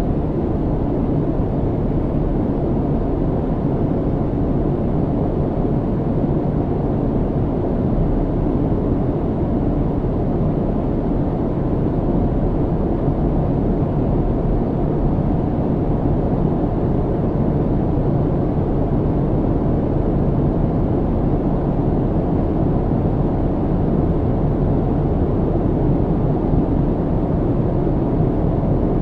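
Airliner cabin noise in flight: a steady low rumble and hiss of engines and airflow, mostly deep, with a faint steady hum on top.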